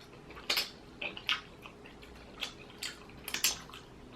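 Eating boiled crawfish with their seasoned juices: a scatter of short, wet clicks and smacks from shells being cracked and peeled and from chewing, the busiest just after three seconds in.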